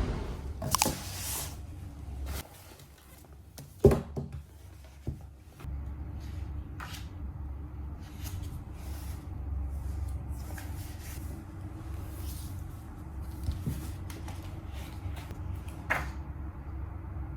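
Household handling sounds in a small room: scattered clicks and knocks, the loudest a sharp knock about four seconds in, over a low steady hum.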